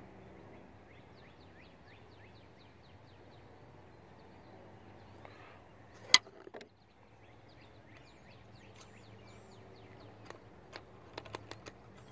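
A bird's song of quick, thin downward notes repeats faintly twice over a steady outdoor background. A single sharp knock comes about halfway through, and a run of light clicks near the end as muzzleloader loading gear is handled on the bench.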